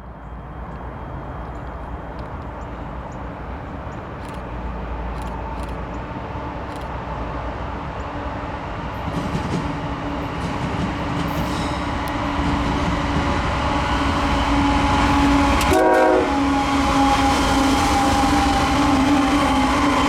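Diesel-hauled intermodal stack train approaching, its rumble growing steadily louder. The locomotive horn sounds as a steady chord from about two-thirds of the way in.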